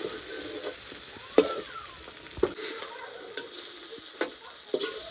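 Food deep-frying in hot oil with a steady sizzle, stirred, with several sharp knocks of a utensil against the pot.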